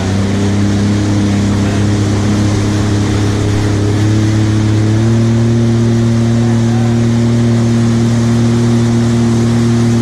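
Jet ski engine running under way, its pitch stepping up twice, about four and five seconds in, as the throttle is opened further, over a steady rushing noise.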